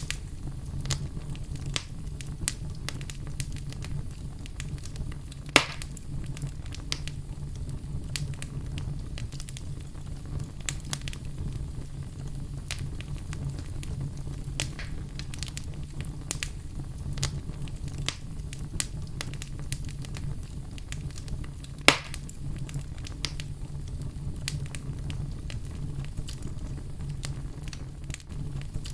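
Wood fire burning in a fireplace: a steady low rumble of flames with constant small crackles and two loud pops, about six seconds in and near twenty-two seconds.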